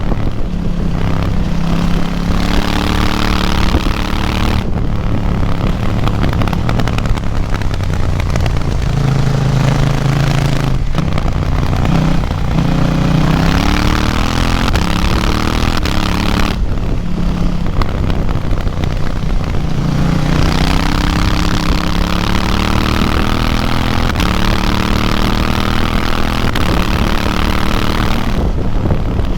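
KTM 790 Duke's A2-restricted parallel-twin engine under hard riding: the revs climb through the gears, then drop away on closing the throttle, several times over.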